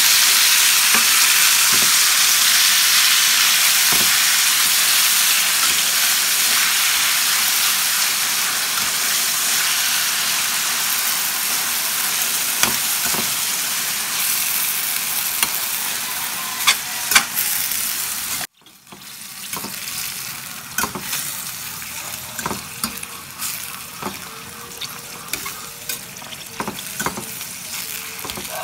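Diced chicken sizzling as it fries in a stainless steel skillet, stirred with a slotted metal turner that clicks and scrapes against the pan. The sizzle is loud at first and slowly eases. After a sudden drop-out about two-thirds of the way in, it is quieter, with frequent clicks from the turner.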